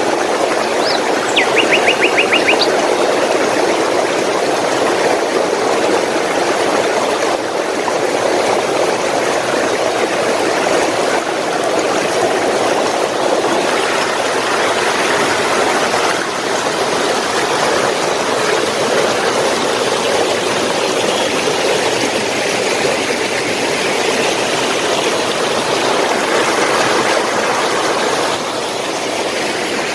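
Steady rush of flowing water, like a stream or small cascade. A small bird gives a quick high trill about two seconds in.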